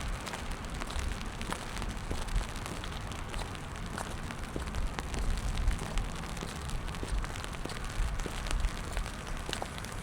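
Steady rain falling on wet pavement, with many separate drops ticking irregularly, over a low rumble.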